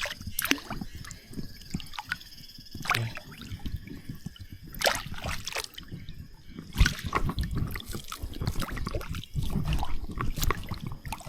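Water splashing, sloshing and dripping in irregular bursts as a submerged fish cage trap is felt for and hauled up out of the river.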